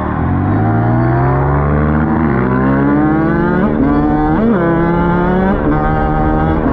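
Dirt bike engine accelerating and shifting up through the gears. Its pitch climbs, drops at a shift about two seconds in, climbs again, and drops at further shifts around three and a half and four and a half seconds, then holds fairly steady toward the end.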